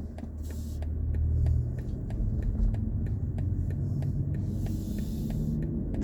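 Low road and tyre rumble inside the cabin of a BMW i4 M50 electric car while it drives, with faint ticks about two or three a second and a short hiss about four seconds in.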